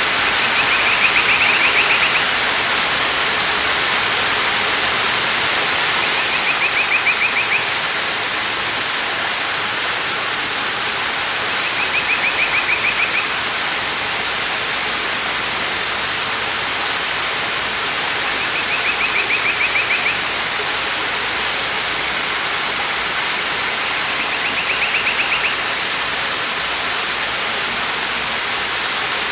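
Waterfall's steady rushing water, with a bird's short, rapid trill repeating about every six seconds, five times.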